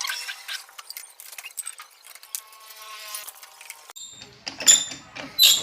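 Metal parts clinking and knocking together, some strikes ringing on briefly like struck steel, with scattered clicks and a short run of rapid ticking before the clinks.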